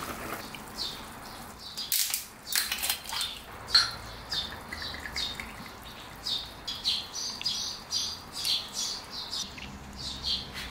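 Bird chirping in short, high calls repeated every half second or so, with a few sharp clicks about two to four seconds in.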